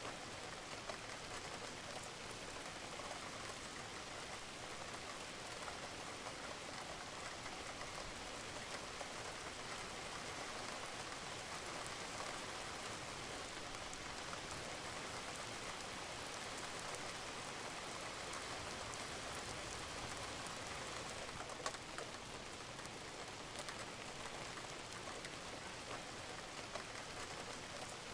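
Steady rain falling on a roof, a dense even patter with scattered drops and one slightly sharper drip about three quarters of the way through.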